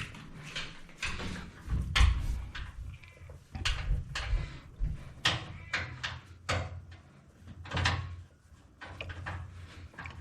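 Irregular knocks, bumps and scrapes, about a dozen over several seconds, from handling and fitting an anti-vibration stand under a front-load washing machine.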